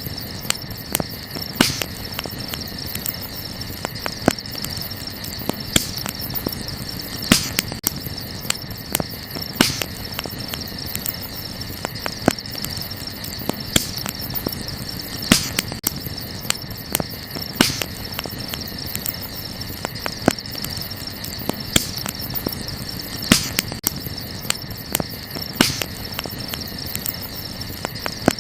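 Wood campfire crackling, with sharp, irregular pops, some louder than others, over a steady high-pitched chirring background.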